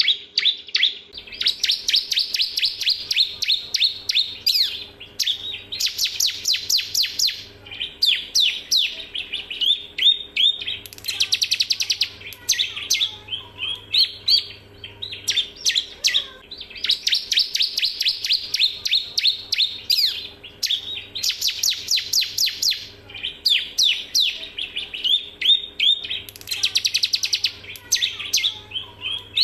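Male bar-winged prinia (ciblek) singing: long runs of rapid, high, sharp chirps and trills, with the same sequence of phrases repeating about every 15 seconds, as a looped recording would. A faint steady hum lies underneath.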